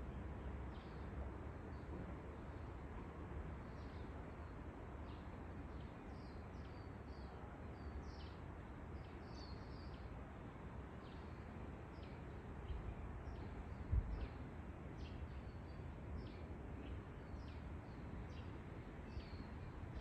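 Birds chirping repeatedly in short, high, falling chirps, about one or two a second, over a steady low wind rumble on the microphone. There is a single soft bump about two-thirds of the way through.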